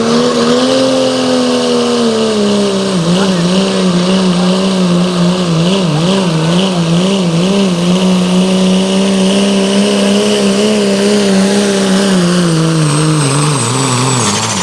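Pulling vehicle's engine running hard at high revs under load while dragging the weight sled. Its pitch wavers up and down for a few seconds in the middle, holds, then falls away near the end as the run slows.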